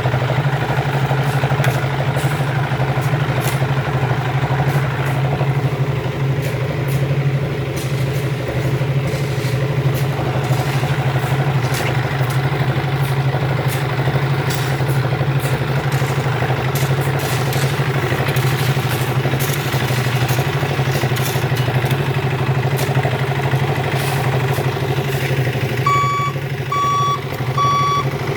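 Isuzu Elf dump truck's diesel engine running steadily. Near the end its reversing alarm starts, beeping about twice a second.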